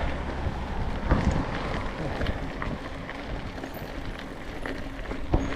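Wind buffeting the microphone as a steady low rumble, with a couple of sharp knocks, about a second in and again near the end.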